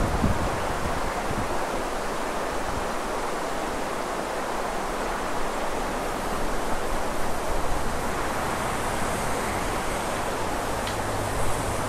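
Steady outdoor rushing noise of wind and traffic on a snowy street, even throughout with no distinct events. A low engine hum comes up in the second half as a car approaches.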